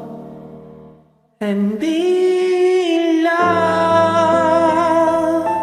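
Jazz ballad sung live: a vibrato vocal note over accompaniment fades almost to nothing about a second in, then a long held vocal line with vibrato comes back in loudly over sustained chords.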